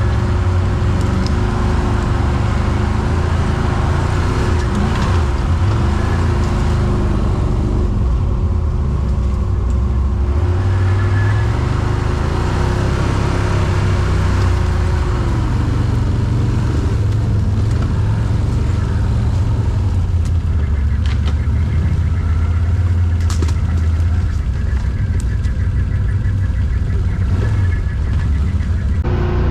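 Quad bike (ATV) engine running steadily at low revs, its note shifting about halfway through.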